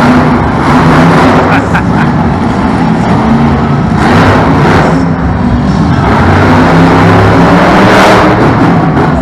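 Monster truck engine running loud, surging several times.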